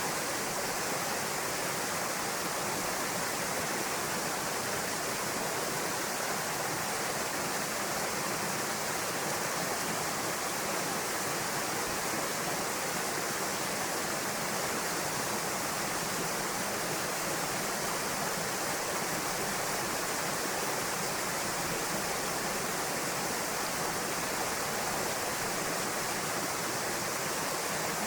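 Small waterfall spilling into a pool, a steady, even rush of falling water with no change.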